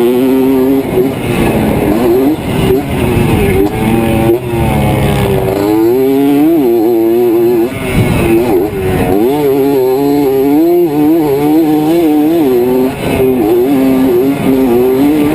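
Dirt bike engine running hard, its pitch climbing and falling again and again as the throttle is opened and closed.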